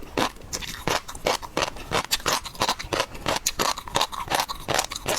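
Close-up crunching and clicking from eating shellfish such as prawns: a dense, irregular run of sharp crunches, several a second.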